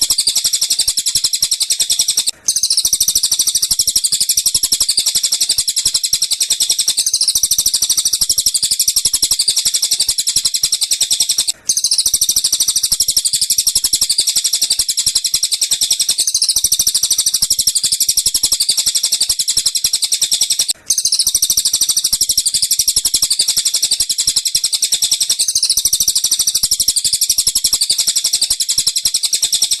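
Bird-song training recording of tengkek buto and cililin song, used to tutor lovebirds: continuous, dense, high-pitched chirping and trilling. It repeats in a loop and breaks off for a moment about every nine seconds.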